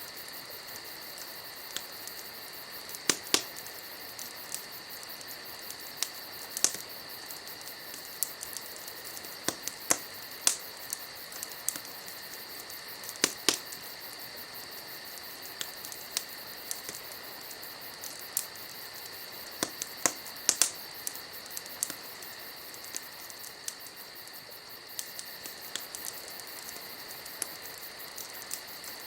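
Wood campfire crackling, with irregular sharp pops a few seconds apart over a steady high insect trill.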